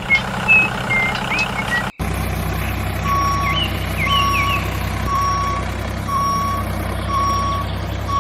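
A vehicle's reversing alarm beeping about once a second over a steady running engine or motor, starting about two seconds in after a different, rumbling sound stops abruptly.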